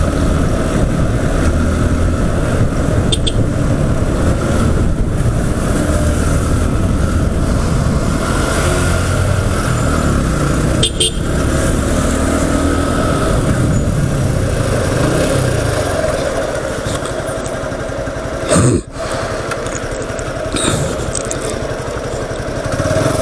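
Motorcycle running under way with a steady rushing noise. It eases off a little in the last third.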